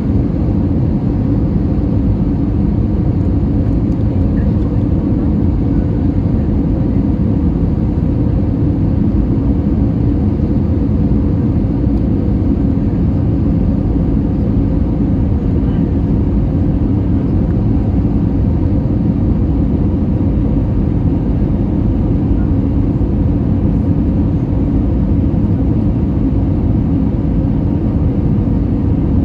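Steady cabin noise of an Airbus A320 airliner: a constant low rumble of engines and airflow, with a faint steady hum, heard from inside the cabin.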